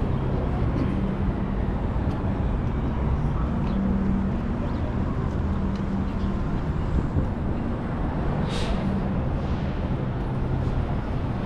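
City street traffic with a vehicle engine running close by as a steady low drone, and one short hiss about eight and a half seconds in.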